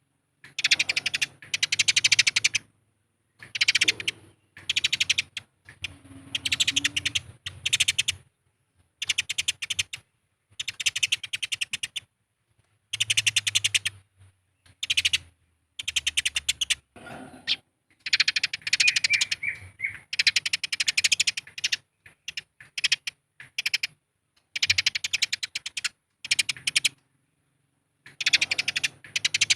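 Eurasian tree sparrows fighting: fast, harsh chattering calls in repeated bursts of one to two seconds, with short silent gaps between them.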